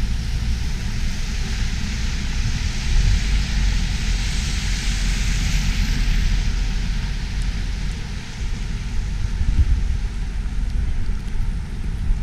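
Wind buffeting the microphone in a snowstorm, a heavy irregular low rumble, with a broad rushing noise that swells around the middle and then eases.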